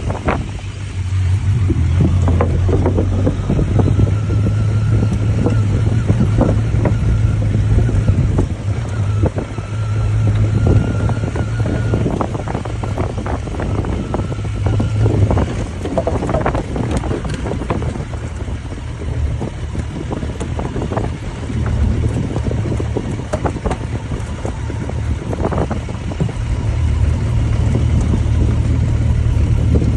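Motorcycle engine running at a steady low pitch while riding, with wind buffeting the microphone and many irregular knocks and rattles over it.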